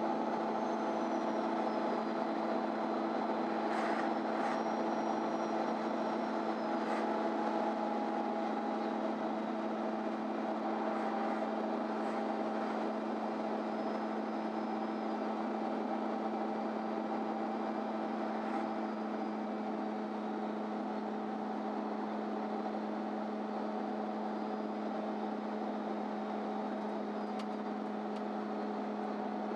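Inside a MAN Lion's City Ü city bus: the drivetrain runs with a steady hum that holds one pitch throughout, with a faint high whine drifting slowly above it and a few faint clicks.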